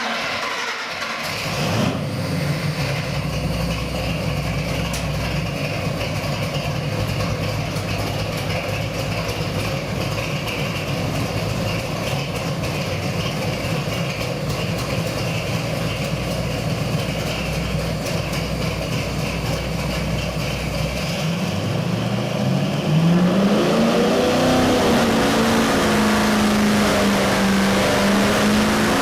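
Ford 460 big-block V8 stroked to 501 cubic inches, fitted with a hydraulic roller cam and electronic fuel injection, starting up and then idling steadily. Just over 20 seconds in, it is revved up and held at a higher, louder engine speed.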